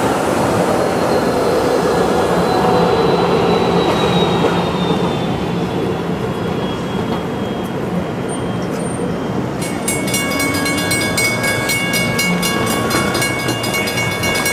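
Passenger train passing close by: a steady, loud rumble of wheels on the rails. About ten seconds in, a high squeal of several tones joins it, pulsing a few times a second, typical of wheels squealing on the track.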